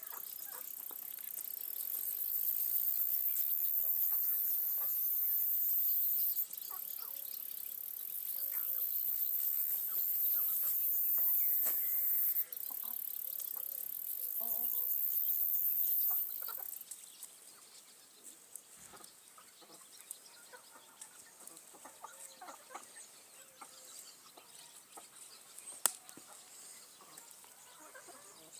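Chickens clucking, scattered short calls throughout. A loud, steady high-pitched hiss dominates the first half and cuts off abruptly about 17 seconds in, leaving the clucking quieter, with one sharp click near the end.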